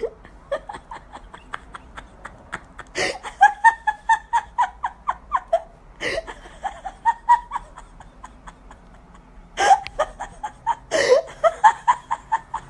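A person laughing in several bouts of quick, breathy pulses.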